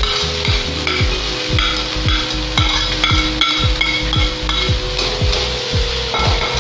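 Mashed paneer-and-potato filling frying and sizzling in a kadai, with a spatula scraping the food off a plate and stirring it in the pan. Background music with a steady beat of about two thumps a second plays underneath.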